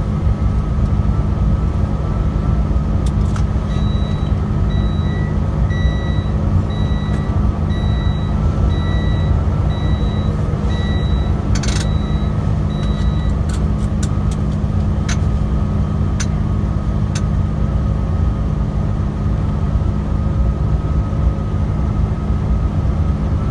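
Heavy truck engine running with a steady low drone, heard from inside the cab. From about four seconds in to about halfway through, an electronic beeper sounds regularly, about one beep every 0.7 seconds. A few sharp clicks follow.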